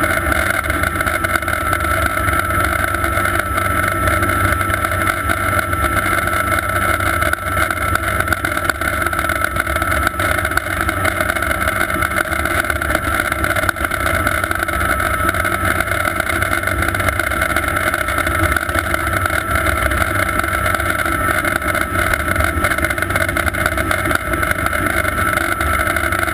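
Sikorsky S-58T twin-turbine helicopter running steadily in flight, a continuous high whine over a low rumble.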